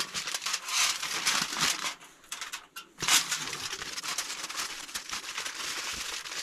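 Butter sizzling and spitting in a hot pan over a campfire, surging several times in the first two seconds and flaring sharply about three seconds in before settling into a steady sizzle.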